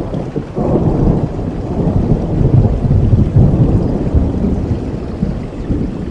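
Rain with a long roll of thunder that swells about half a second in and rumbles on.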